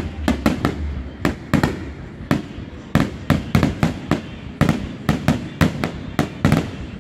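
Aerial firework shells bursting in rapid succession: a continuous string of sharp booms and cracks, several a second.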